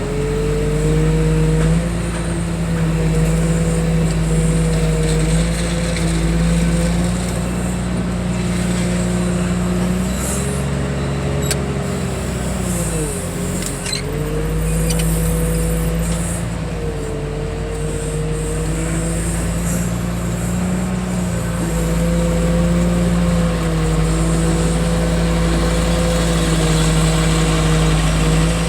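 Heavy-equipment diesel engine running steadily with a hum, its pitch sagging briefly about halfway through and then recovering, as if it were taking a load. A few light metallic ticks sound over it.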